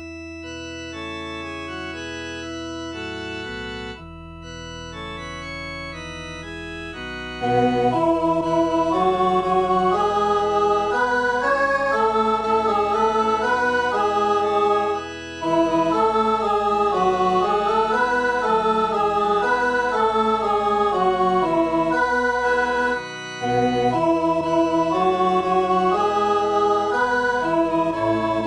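Electronic organ playing a four-part hymn arrangement, the practice track for the alto part of a Christmas hymn. It opens with soft sustained chords, then from about 7 seconds in plays louder with moving voices, pausing briefly twice at phrase ends.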